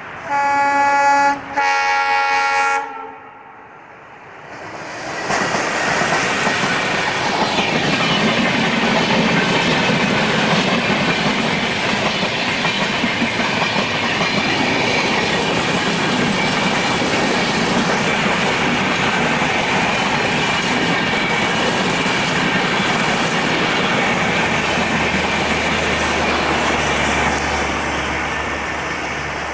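Two blasts of a diesel locomotive's horn, each about a second long, then after a short lull the steady rumble and clickety-clack of LHB passenger coaches rolling past close by.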